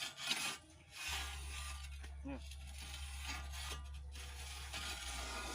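Repeated rasping scrapes from hand work on the manual well drilling, with a steady low hum coming in about a second in.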